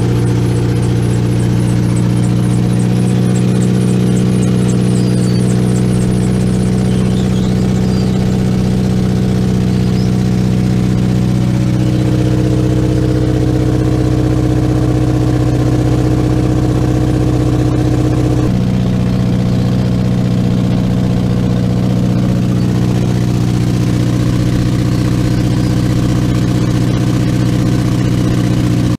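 Boat engine running steadily while crossing the river, with a slight shift in its note about 12 seconds in and again about 18 seconds in.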